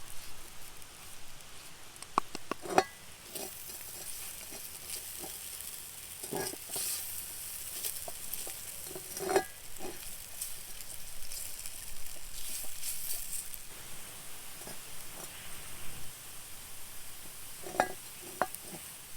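Potatoes frying in oil in a cast iron skillet, with a steady sizzle. A few scattered clicks and knocks sound over it.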